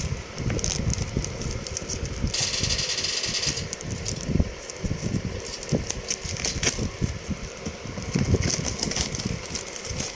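Plastic wrapping crinkling and crackling as it is pulled off a cardboard product box, with many small irregular crackles. Two longer rustles come about two seconds in and again near the end.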